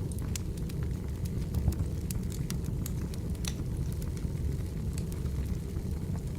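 Wood fire burning, with a steady low rumble of flames and many irregular sharp crackles and pops from the burning logs.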